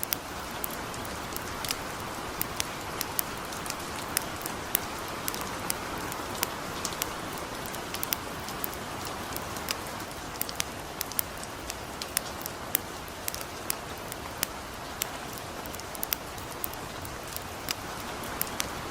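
Steady hiss of gentle rain mixed with the irregular, sharp crackles and pops of a burning campfire.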